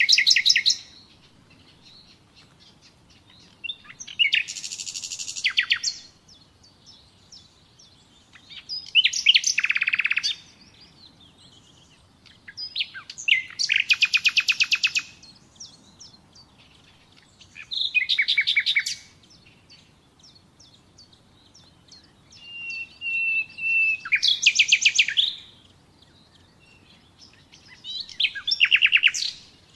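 Common nightingale singing: about seven separate phrases spaced four to five seconds apart, each a burst of rapid repeated notes, one of them opening with a long held whistle before the fast notes.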